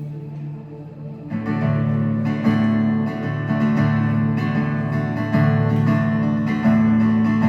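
Live worship band playing a song's instrumental intro: a quiet held chord, then acoustic guitar strumming with the band coming in, louder, after about a second.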